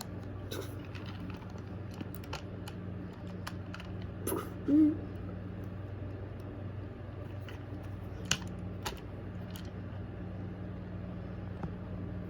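Light clicks and knocks of toy trains being handled, scattered over a steady low hum, with a short louder sound about five seconds in.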